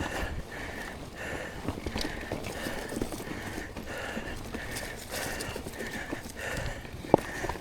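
A mountain biker's fast, hard breathing in a steady rhythm of about two to three breaths a second, over the rolling noise and rattle of the bike on dirt trail. One sharp knock from the bike comes near the end.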